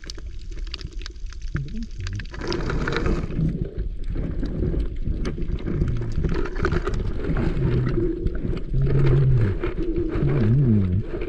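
Muffled sound from a camera held under sea water: water sloshing and bubbling, with low wavering hums that grow stronger near the end.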